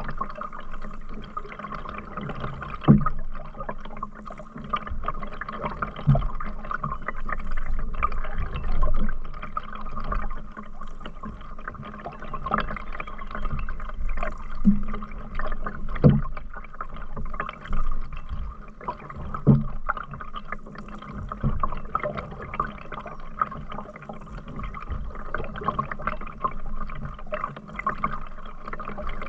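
Canoe paddling: paddle strokes through river water with dripping and gurgling. A few short low knocks stand out, the first about three seconds in being the loudest.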